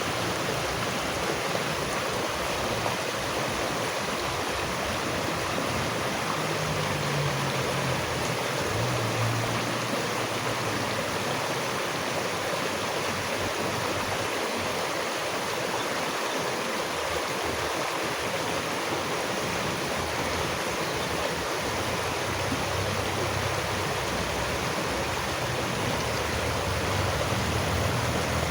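Flowing stream, a steady, even rush of running water.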